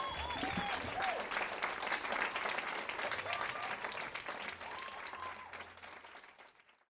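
Crowd applause, many hands clapping, fading out to silence near the end.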